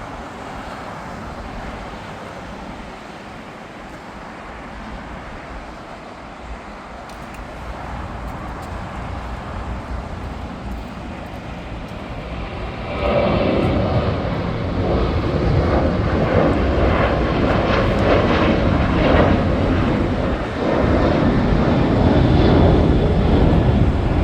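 Jet airliner engines growing steadily louder, then jumping abruptly about halfway in and staying loud as the aircraft passes close by.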